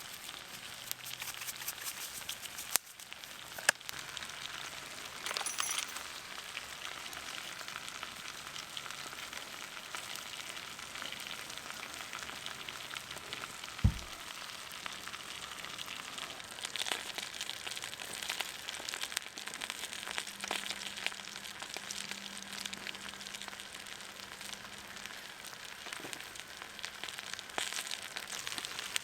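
Meat sizzling directly on hot campfire coals, with the fire crackling steadily; there is a single dull thump about halfway through.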